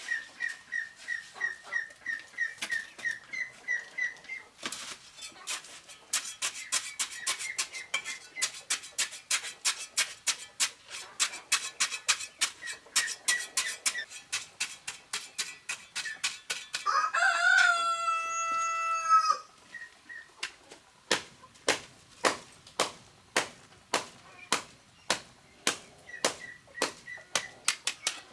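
A rooster crows once, a long call about two-thirds of the way through, over a steady run of sharp, regular taps or knocks, several a second, slowing in the last third. Near the start a bird gives a quick series of short repeated chirps.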